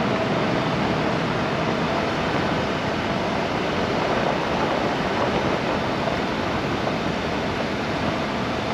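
Truck driving slowly on a rough, rocky dirt forest road, heard from inside the cab: a steady rumble of tyres and engine with a faint steady tone.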